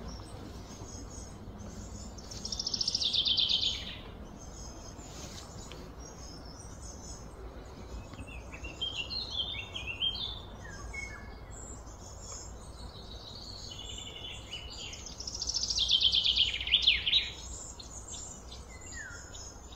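Songbirds singing: two loud, fast trills of repeated notes falling in pitch, about two seconds in and again about fifteen seconds in, with scattered shorter chirps between them over a faint steady low hum.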